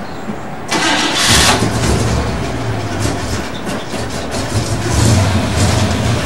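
Classic car's engine cranked by the starter and catching about a second in, then running steadily.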